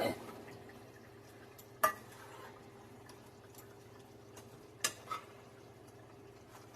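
A few short clinks of a metal utensil against cookware: one about two seconds in and two close together about five seconds in, over a faint steady hum.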